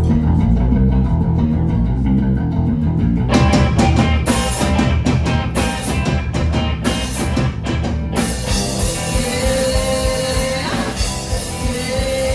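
Live rock band playing: guitars and bass, with the drum kit coming in about three seconds in and the full band filling out a few seconds later.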